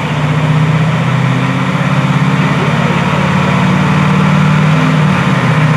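A car engine idling steadily, with an even, rapid pulse from the exhaust; the note dips briefly about five seconds in.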